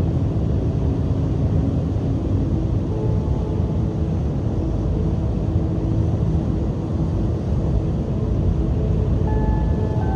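Strong sea wind and surf on the shore: a steady, dense noise heaviest in the low end, without separate wave crashes standing out.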